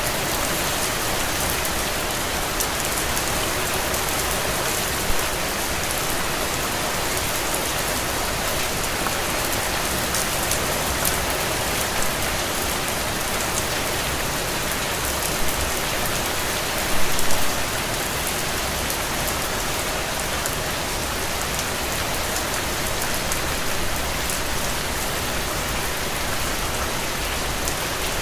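Steady rain pattering on a window, an even hiss with fine drop ticks, and a few slightly louder splashes, the biggest about two thirds of the way through.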